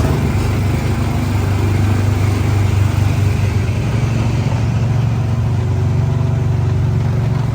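Small gasoline engine of an antique-style amusement-park ride car running at a steady, even speed.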